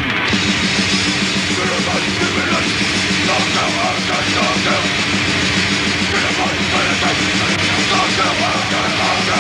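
A hardcore punk/grindcore band playing live at full volume: a dense wall of distorted guitar, bass and fast pounding drums.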